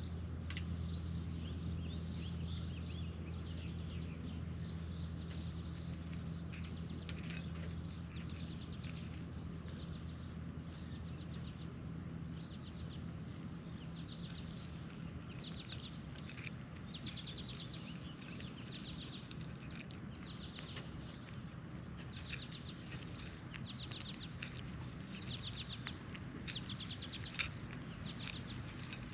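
Birds calling: a long series of short, rapid, buzzy chattering calls, each about half a second, repeated every second or two, over a steady low background hum that fades about halfway through.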